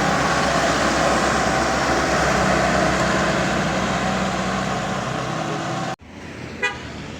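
Heavy truck engine running steadily under load, then cut off abruptly about six seconds in, leaving quieter road noise and a brief high beep.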